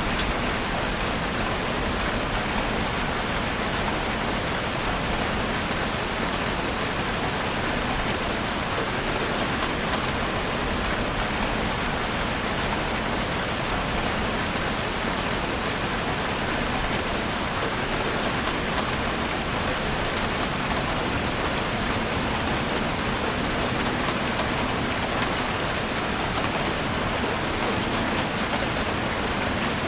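Heavy rain drumming steadily on a roof, with fine individual drop ticks over an even hiss.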